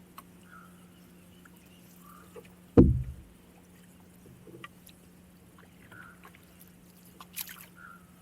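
Paddling a canoe: quiet water sounds and small knocks of the paddle, with one loud low thump against the canoe about three seconds in.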